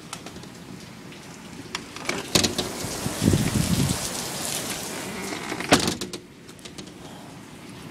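Heavy thunderstorm rain falling steadily. About two seconds in it swells to a much louder rush of rain and wind with a low rumble, bracketed by two sharp knocks, then drops back to the steady downpour near the end.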